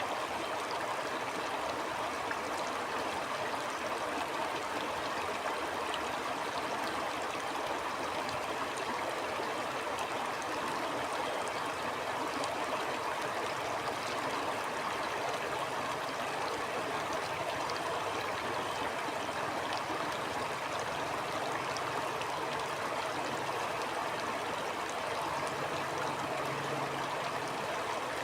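Stream water flowing steadily: a continuous, even babble of running water with no breaks.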